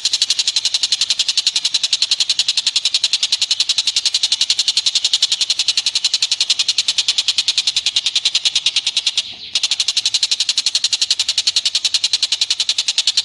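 An animal call of rapid, evenly repeated high chattering notes, about eight a second, with a brief break about nine seconds in.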